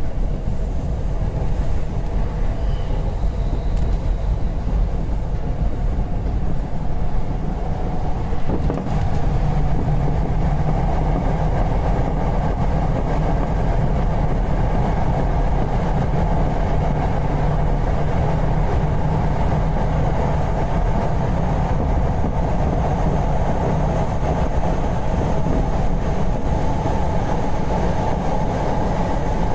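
Electric commuter train running, heard from inside the driver's cab: a steady rumble of wheels on rails and traction motors, louder and fuller from about nine seconds in once the train is running in the tunnel.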